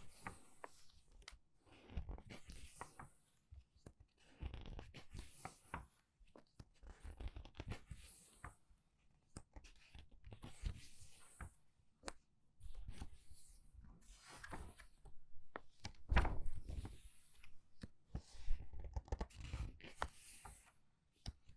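Book pages being turned quickly one after another, each turn a short papery swish and rustle, with light handling bumps of the book.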